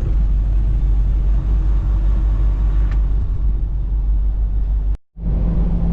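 Steady low rumble of a semi-truck's engine and road noise, heard from inside the cab while cruising on the highway. The sound cuts out briefly about five seconds in.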